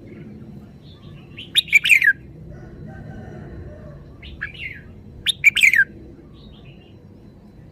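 Red-whiskered bulbul singing: short loud phrases of quick falling whistled notes, two of them a few seconds apart with a fainter one between, over a steady low background rumble.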